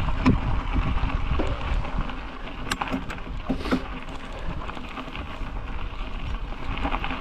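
Wind rumbling on a bike-mounted camera's microphone together with the bicycle's road noise while riding, with a few sharp clicks or knocks from the bike.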